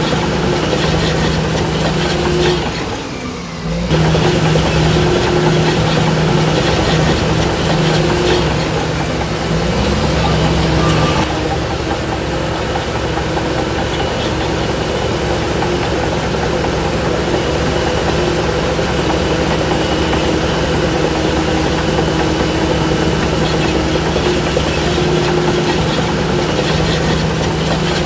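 Heavy diesel earthmoving machinery running steadily under load, with a constant engine hum. The sound drops briefly about three seconds in and changes character slightly past the ten-second mark.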